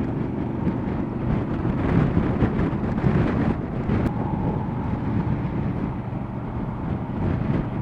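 Motorcycle riding at a steady road speed: a steady engine drone mixed with wind rushing over the microphone.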